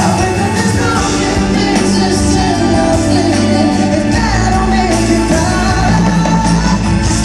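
Live concert recording of a pop ballad: full band playing with sung vocals over a steady low bass.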